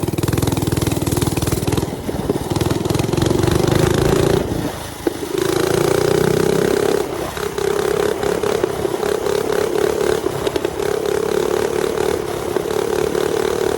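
Mini bike's small engine running steadily while being warmed back up after sitting on its kickstand. The engine sound dips briefly about five seconds in, then picks up again.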